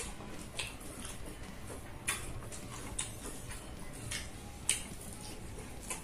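Close-miked wet chewing of soft rice and egg omelette, with sharp lip smacks and mouth clicks at an irregular pace, roughly one a second.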